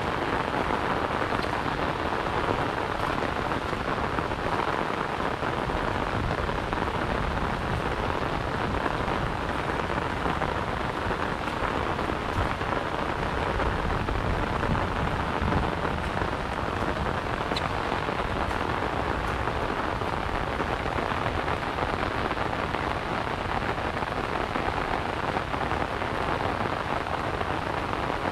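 Steady rain falling on an umbrella overhead and on the surrounding grass and water, an even hiss with a low rumble beneath.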